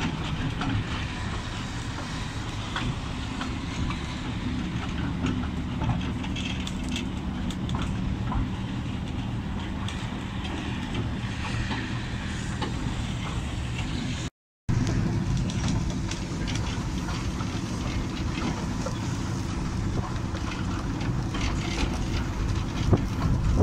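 2-foot-gauge seaside railway train running along the track, heard from aboard the carriage: a steady rumble and hum with occasional light clicks of the wheels. The sound cuts out for a moment about halfway through, and wind buffets the microphone near the end.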